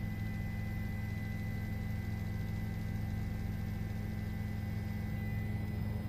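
Steady low hum with a faint hiss and a few thin steady high tones, unchanging throughout.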